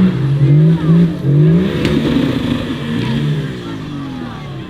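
Off-road 4x4 engine revving hard in bursts, its pitch jumping up and down several times as the throttle is blipped, then easing off and fading toward the end.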